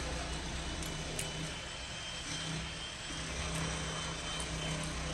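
Engine of a construction machine working on a nearby house build, running steadily with a low, even hum.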